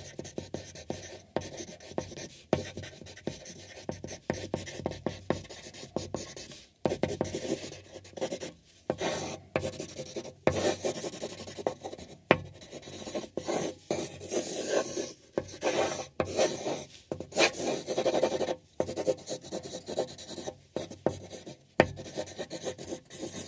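Pen writing on paper in a journal: a run of short, irregular scratchy strokes with brief pauses between words.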